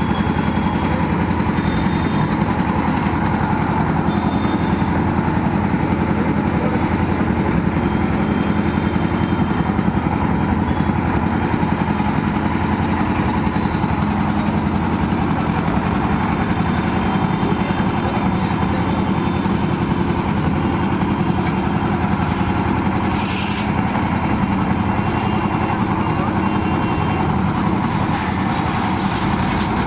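Engine-driven construction machinery running steadily during concrete pouring, a continuous engine drone with no change in speed. Faint short high-pitched tones come and go over it.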